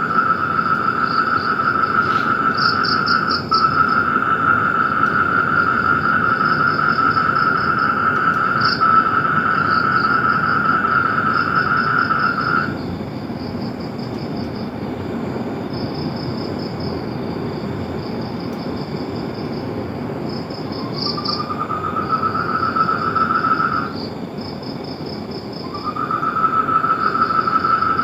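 Chorus of calling animals: a long, steady high trill that stops about halfway through and comes back twice, rising slightly in pitch as it starts, over a higher rhythmic pulsing chirp.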